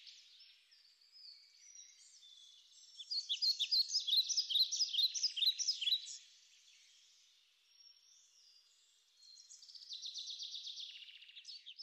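Songbirds chirping faintly, with a quick run of repeated notes, several a second, for about three seconds, then a buzzy trill near the end.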